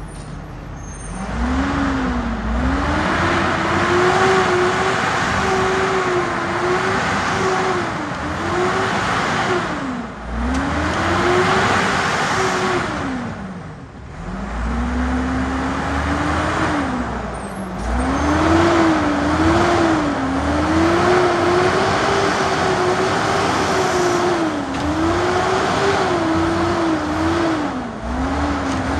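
Garbage truck engine revving hard, its pitch climbing and falling over and over, with short drops back toward idle about ten and fourteen seconds in.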